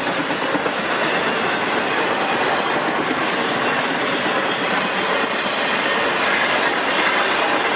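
Intermodal freight train passing close by, a steady loud rush of steel wheels rolling on the rails.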